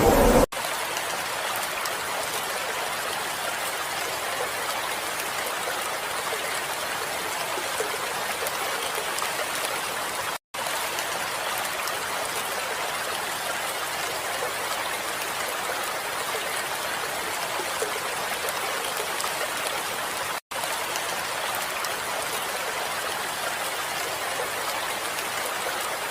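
Steady rain falling, an even hiss of water that cuts out for an instant twice, about ten seconds apart.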